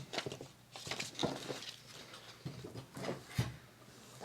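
Paper scraps being handled and shuffled by hand: irregular rustling with scattered light taps and clicks.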